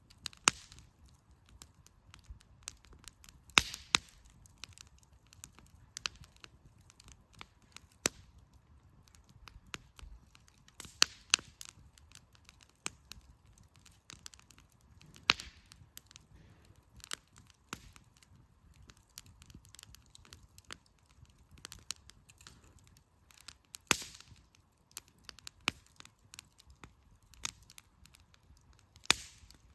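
Firewood burning in a campfire, crackling with irregular small snaps and pops and a sharp louder crack every few seconds.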